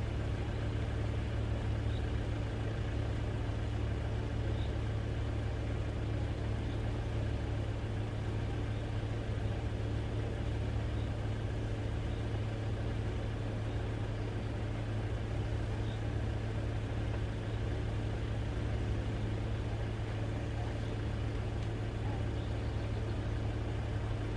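Car engine idling, a steady low hum that does not change.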